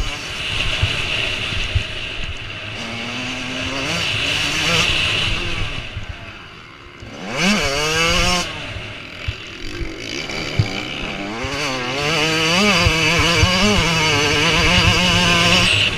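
Motocross motorcycle engines revving up and down as bikes ride the track. The sound dips about six seconds in, then an engine revs sharply upward, and the engine pitch keeps rising and falling over the last few seconds.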